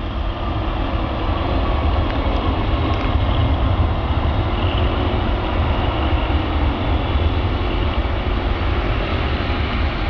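Boeing 747 turbofan engines at takeoff thrust: a loud, steady, deep rumble with a broad rushing noise above it.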